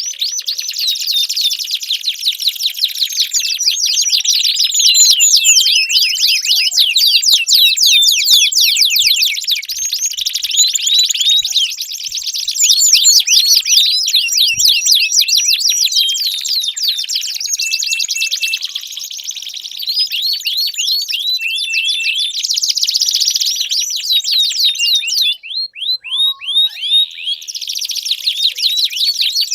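Domestic canary singing a long, fast trilling song of rapid repeated notes, breaking off briefly near the end before starting again.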